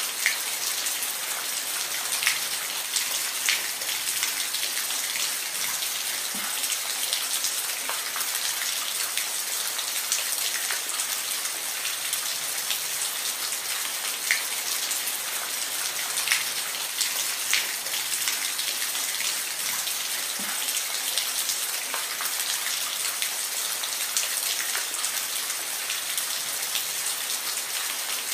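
Steady rain falling, an even hiss with scattered louder drops pattering on a surface.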